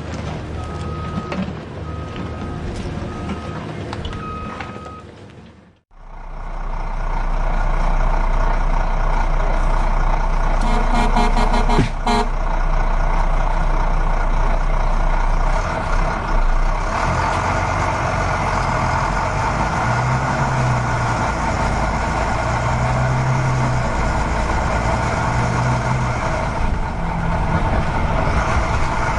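Recycling truck reversing alarm beeping about once a second. After a brief drop-out, the truck's engine runs loudly and steadily, with a quick rattle about halfway through.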